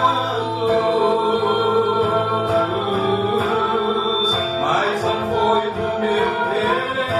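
A man and a woman singing a Portuguese gospel praise song, with guitar accompaniment.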